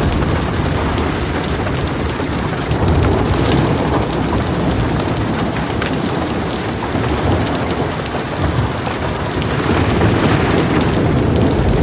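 Heavy rain drumming steadily on a metal roof, with thunder rumbling low beneath it. The rumble swells about three seconds in and again near the end.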